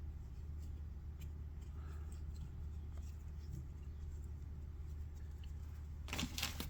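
A steady low hum with a few faint small ticks of fly-tying work, then about six seconds in, plastic packaging starts crinkling loudly as it is handled, typical of a packet of dubbing being reached into.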